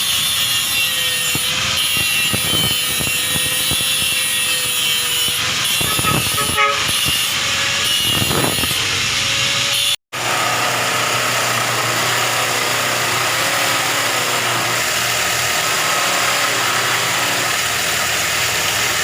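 Power tool working stainless exhaust pipe: a steady whine over loud hiss, broken off briefly a few times. After a sudden cut about ten seconds in, a different steady mechanical noise with a low hum takes over.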